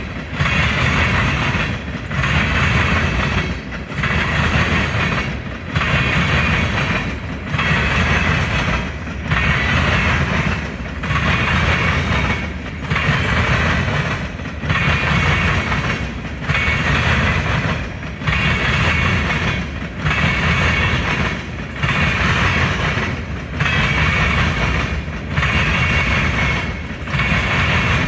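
A long train rolling past close by, the cars going by one after another. The sound swells and dips briefly about every second and a half as each car passes.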